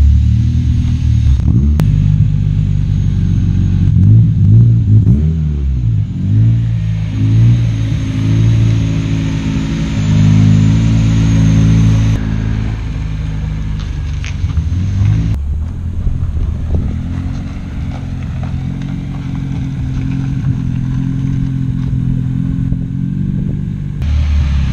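K24-swapped Honda Civic hatchback's 2.4-litre four-cylinder engine and exhaust running as the car drives, revving up and down several times in the first half, then running more steadily at low revs.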